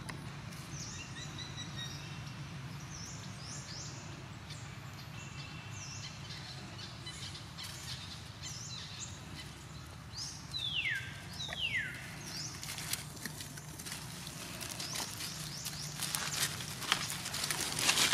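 Outdoor ambience over a steady low hum, with many short, high bird chirps and two louder falling whistled calls just past the middle. In the second half a run of crackling taps and rustles builds up, loudest near the end.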